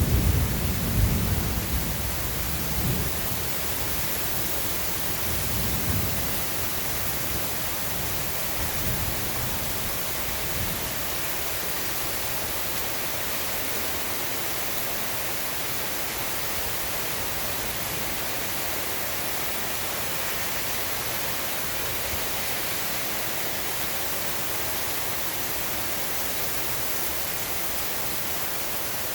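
Steady rain hiss in a thunderstorm, with a low rumble of thunder in the first few seconds that dies away, and a weaker rumble about six seconds in.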